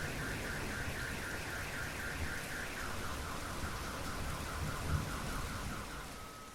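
Steady rain with a car alarm cycling through its tones: a rapid chirping at about four a second that drops in pitch about three seconds in, then a steady tone near the end. The sound fades out at the end.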